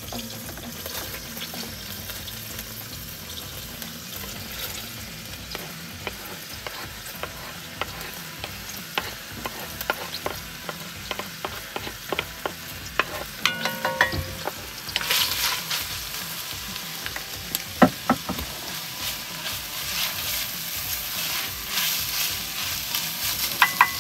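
Meat and diced onions sizzling in hot oil in two pots, with a wooden spatula scraping onions off a bamboo cutting board and clicking against the pot as they are stirred. The sizzling gets louder about fifteen seconds in.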